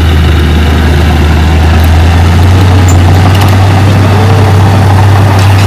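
Heavy diesel earthmoving machine's engine running steadily with a deep, even hum.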